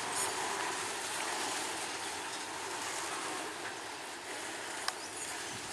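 Freight train wagons rolling along the track as a steady rumbling hiss that eases slightly, with one sharp click about five seconds in.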